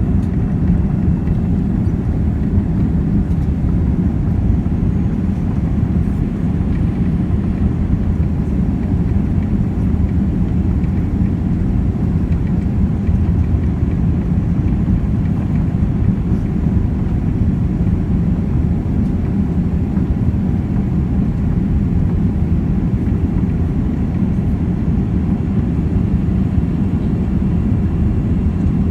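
Steady low rumble of a Boeing 787's jet engines and airflow heard inside the passenger cabin, even throughout with no change in pitch.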